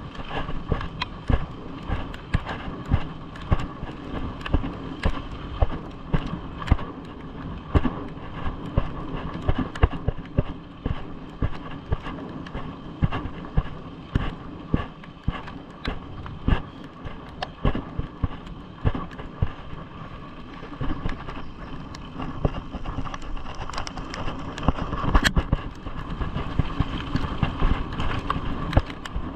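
A vehicle in motion: a steady mechanical hum with frequent, irregular clacks and knocks.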